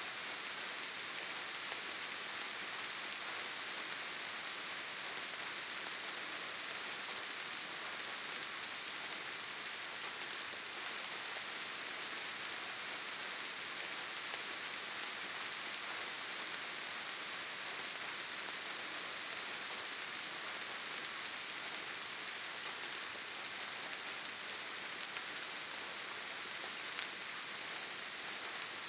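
Steady rain falling, an even, unbroken hiss with no separate drops, thunder or other sounds standing out.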